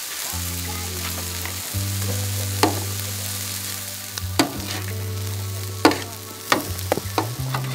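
Food sizzling as it fries in a pan, with several sharp clicks and scrapes of a utensil against the pan as it is stirred. Background music with sustained bass notes plays underneath.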